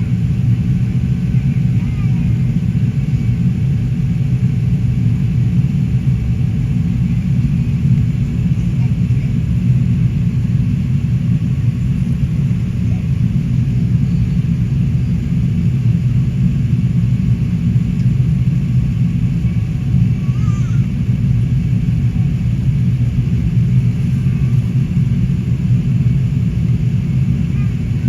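Steady low rumble of an Airbus A380's Rolls-Royce Trent 900 engines and airflow, holding level without rising or falling.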